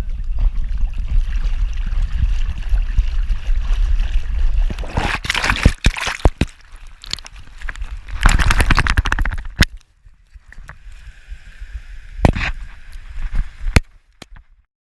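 Sea water sloshing and splashing, louder about five seconds in and again about eight seconds in, dropping away near the end.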